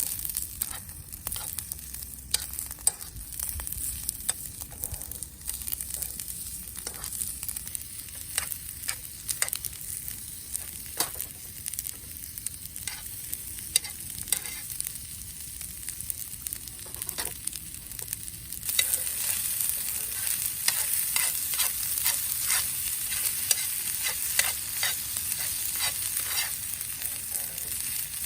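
Food frying in a pan: a steady sizzle with scattered pops and clicks, the sizzle growing louder about two-thirds of the way through.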